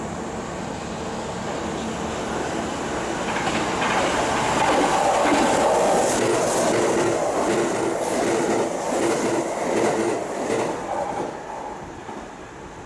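A coupled Kintetsu 22600-series and 22000-series limited express electric train passing through a station at speed. The rumble of wheels on rail swells from about three seconds in, with a run of clacks as the cars cross the rail joints, then fades away near the end.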